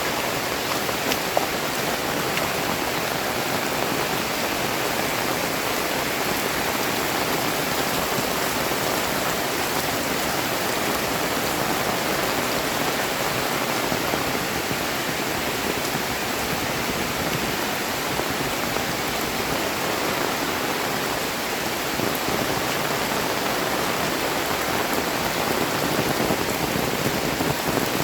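Heavy rain pouring down in a steady, even hiss, growing a little louder near the end.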